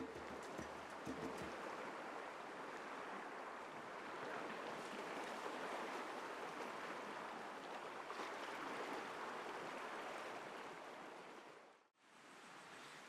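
Sea surf washing in a steady rush that swells and ebbs slowly, cutting off abruptly near the end to a quieter, fainter ambience.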